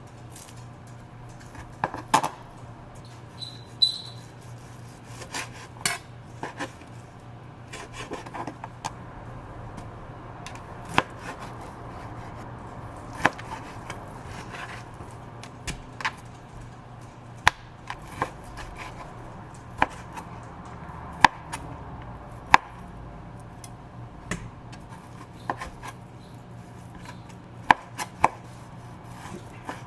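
Furniture being assembled: irregular knocks, taps and clatter of parts and hardware being handled, about twenty sharp hits scattered through, over a steady low hum.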